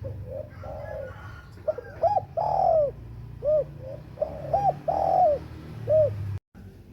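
A bird calling in a series of short, low, arching whistled notes, some single and some in quick pairs, over a steady low hum. The sound cuts out briefly near the end.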